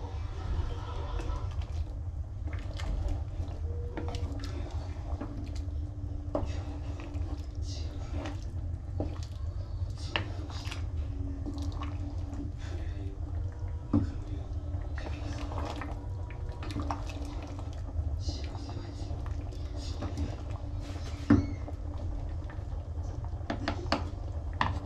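Kitchen cooking sounds over a low steady hum: liquid sloshing and dripping, with scattered clicks and knocks of utensils and two louder knocks, one about halfway and one later on.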